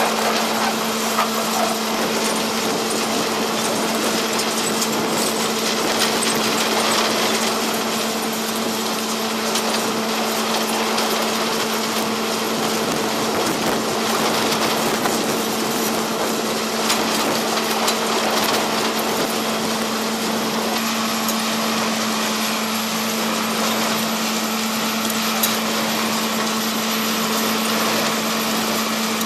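Vermeer T655 Commander 3 trencher tractor running steadily under load, its engine hum held at a constant pitch over the even noise of the digging attachment.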